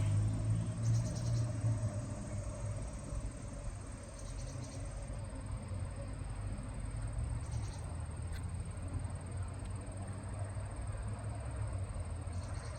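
Steady low rumble of distant road traffic, with short high-pitched bird calls about four times, a few seconds apart.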